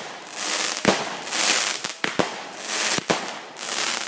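Consumer fireworks going off in quick succession: sharp bangs about once a second, with hissing between them.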